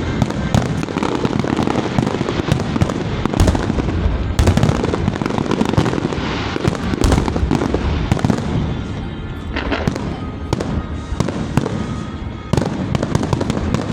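Fireworks going off without a break: dense crackling with heavier bangs scattered through it, easing off a little for a few seconds near the end before picking up again.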